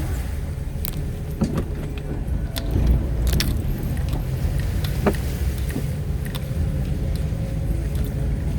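Vehicle driving slowly over a rough, rain-damaged road: a steady low rumble of engine and tyres, with scattered clicks and rattles from loose items jolting in the cabin.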